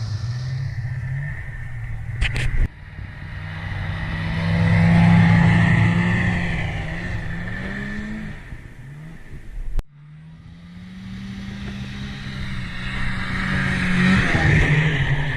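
Small engine running and revving up and down, its pitch climbing and easing off, in three stretches broken by abrupt cuts about two and a half and ten seconds in.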